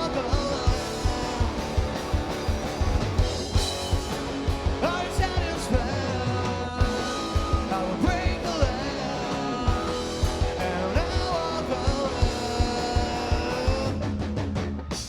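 Rock band playing live, with a steady drum beat under electric guitar and bass.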